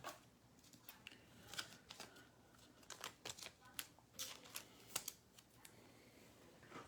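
Faint, scattered clicks and rustles of trading cards and their packaging being handled, about a dozen short sounds clustered in the first five seconds or so.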